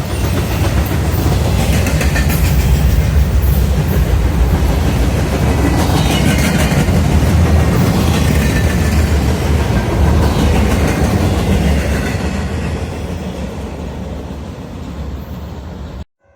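Freight train cars rolling past at track side, a loud steady rumble that fades over the last few seconds and then cuts off suddenly.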